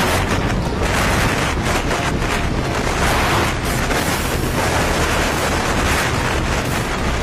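Loud, steady wind rush and buffeting on the microphone of a scooter moving at speed, drowning out the engine.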